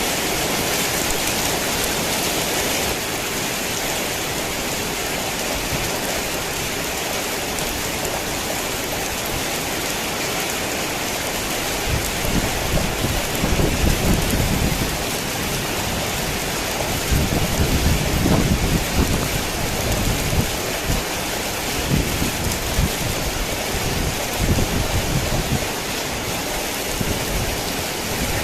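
Heavy rain falling steadily, with low rolling thunder rumbling in waves through the second half.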